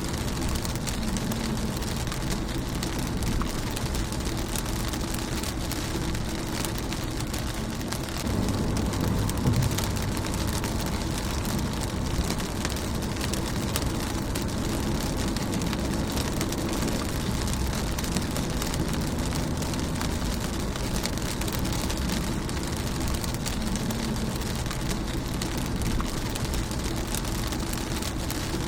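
Steady rain falling on a car's windscreen and body: a dense patter of individual drop ticks over a low rumble, swelling a little about nine seconds in.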